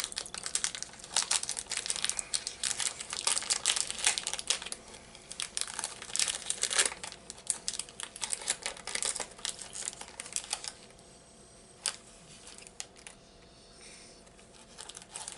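Snack package wrapper crinkling and crackling as it is pulled and worked open by hand, a package that resists opening. The crinkling dies down about ten seconds in, leaving a few faint crackles.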